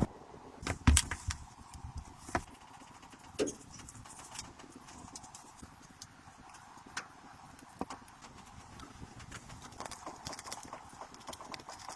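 Irregular light knocks and clicks, several close together in the first few seconds and sparser after.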